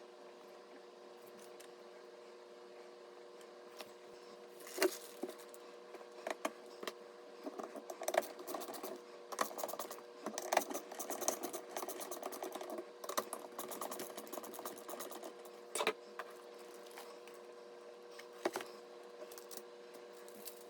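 Irregular clicks, light knocks and rattles from small hardware being handled, densest in the middle, with a couple of single sharp clicks near the end, over a steady low hum.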